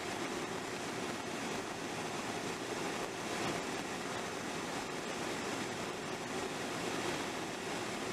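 Steady road and tyre noise inside a moving car's cabin on a wet, snowy road: an even rushing hiss with no breaks.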